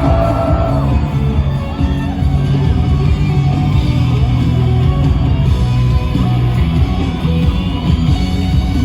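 Live rock band playing loudly, with heavy bass and drums and electric guitar.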